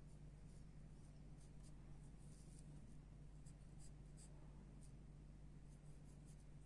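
Pencil strokes scratching faintly on paper in short, irregular strokes, over a low steady hum.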